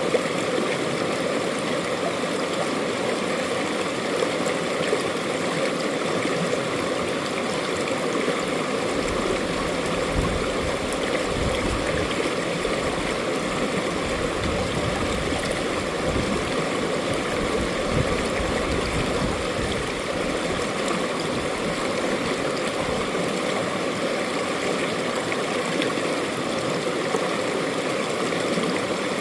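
Mountain stream flowing over rocks: a steady rush of water with gurgling.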